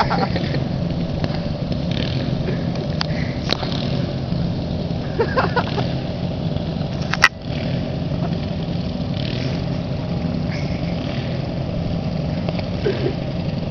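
Riding lawn mower engine running steadily, with a sharp click about seven seconds in.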